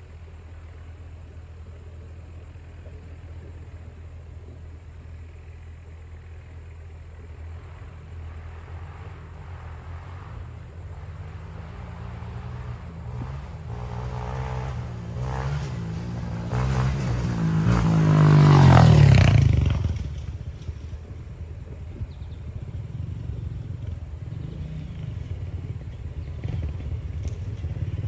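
Honda CRF125F Big Wheel dirt bike's single-cylinder four-stroke engine running low and steady, then revving up to a peak a little past halfway and dropping off sharply. It climbs again near the end.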